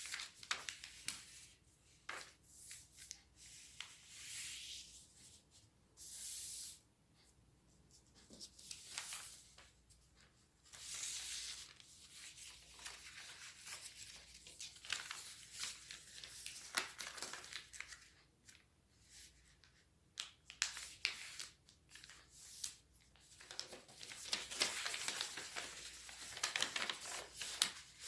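A sheet of origami paper being folded and creased by hand: irregular rustles, crinkles and short scrapes, some lasting about a second, growing busier near the end.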